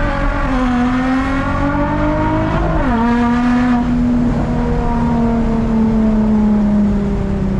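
Infiniti G35's VQ V6 with muffler and resonator deleted, pulling through the gears of its six-speed manual. The engine note climbs, drops at an upshift right at the start, climbs again and drops at a second upshift about three seconds in, then holds nearly steady and eases off slightly.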